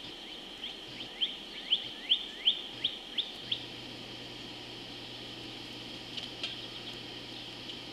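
Pileated woodpecker calling a quick series of about ten sharp, rising notes over three seconds, loudest in the middle, then stopping.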